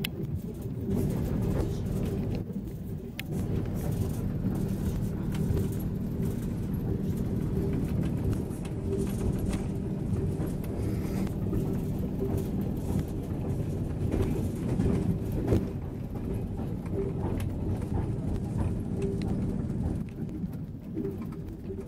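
Train running along the track: a steady low rumble with scattered knocks and rattles.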